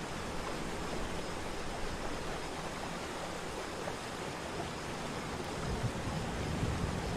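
Waterfall: a steady rush of falling water. Low wind buffeting on the microphone comes in near the end.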